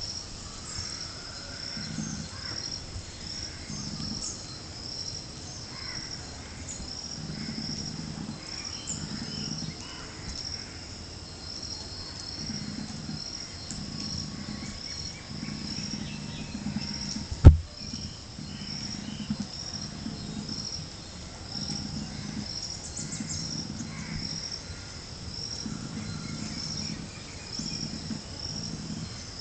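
Insects chirping like crickets in a steady rhythm of about two high chirps a second, with one sharp knock about seventeen seconds in.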